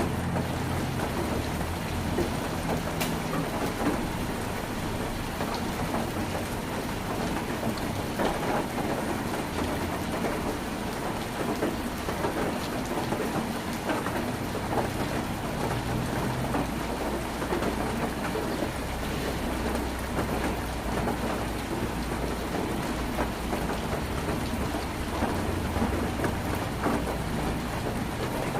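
Heavy rain falling on a tin roof: a steady, dense patter of drops striking metal, with a low rumble underneath that swells in the second half.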